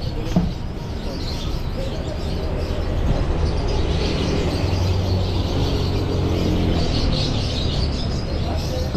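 Many caged songbirds chirping over street traffic, with a motorbike engine passing through the middle.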